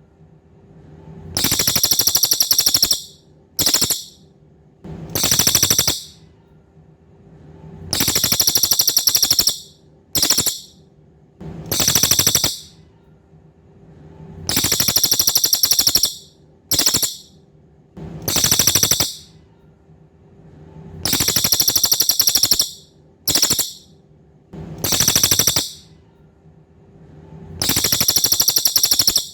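A cililin songbird calls over and over in high, rapid, buzzy trills. A trill about a second long is followed by a short clipped one, then another long one, and the group repeats every several seconds. A faint steady low hum runs underneath.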